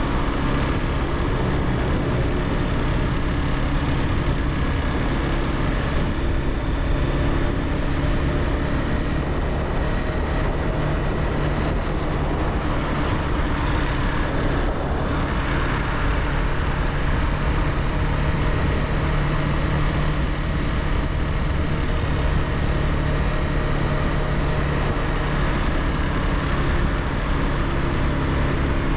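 Honda CBR300R's single-cylinder engine running under way at a fairly steady pace, with a continuous engine note over a broad rush of road noise.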